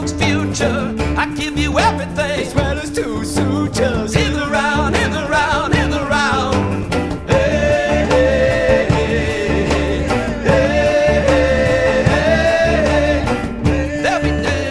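Band music with a guitar and a moving bass line under a singing voice with strong vibrato. From about halfway, long held notes with vibrato take over.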